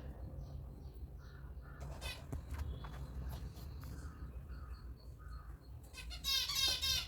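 African lovebirds calling: a shrill harsh call about two seconds in, soft short chirps after it, and a louder, longer run of harsh screeching calls near the end, over a steady low hum.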